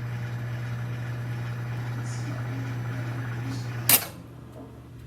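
COMFEE' CM-M093ARD microwave oven running with a steady low hum, then a sharp click just under four seconds in, after which the louder running noise drops away and only a quieter hum remains.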